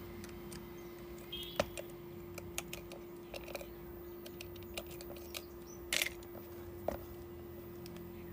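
Small tools and phone parts being handled on a repair bench: scattered light clicks and taps, a sharper click about a second and a half in and a short clatter about six seconds in, over a steady low hum.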